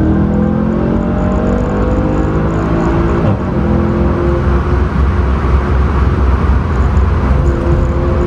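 Mercedes C63 AMG's 6.2-litre V8 heard from inside the cabin under hard acceleration, its pitch rising; an upshift about three seconds in drops the pitch, and it then climbs again.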